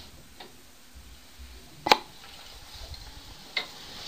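Three or four short, sharp knocks, the loudest about two seconds in.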